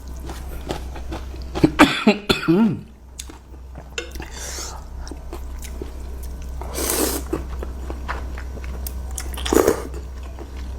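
Close-up chewing of curry noodles, with small wet clicks throughout. About two seconds in there is a throaty vocal sound, and later come two short, loud coughs.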